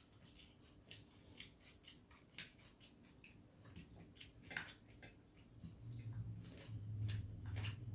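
Faint eating sounds: scattered soft clicks of chewing and mouth noises, with a low hum joining in about halfway through.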